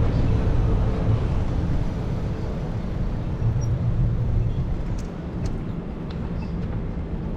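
Low rumble of street traffic or a passing vehicle, with a faint steady hum that fades out a few seconds in. A few faint clicks come near the end.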